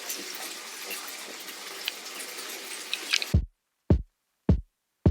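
Water spraying with a steady hiss, cut off abruptly a little over three seconds in. A music track starts in its place with a deep kick-drum beat, about one hit every 0.6 seconds.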